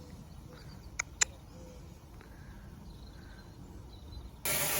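Quiet outdoor background with faint chirps; two sharp clicks a quarter of a second apart about a second in, then a sudden steady rush of noise starting shortly before the end.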